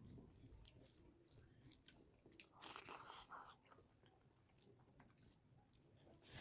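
Faint close-up eating sounds: chewing with small wet mouth clicks, and a louder, brief crunchy bite about two and a half seconds in.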